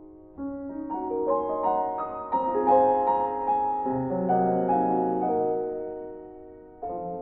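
Background piano music: a gentle piece of overlapping sustained notes, swelling in the middle and fading before a new chord near the end.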